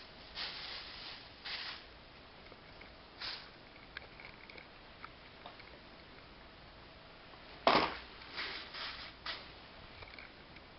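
A few short rustles and clicks of something being handled, the loudest a sharp rustle-knock nearly eight seconds in, followed by three smaller ones.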